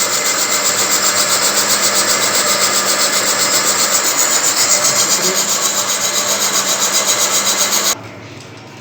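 A lathe's boring tool cutting the inside of a brass bushing: a loud, continuous rasping scrape with a fast, even pulse as the part turns. It cuts off abruptly near the end, leaving only a much quieter running hum.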